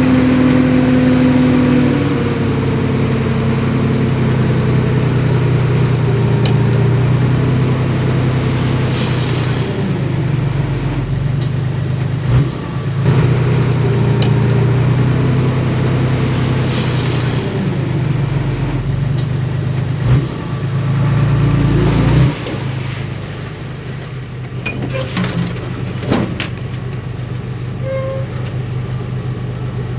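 Heavy diesel engine of earthmoving machinery running steadily, with a few sharp knocks about twelve, twenty and twenty-two seconds in, after which the engine sounds quieter.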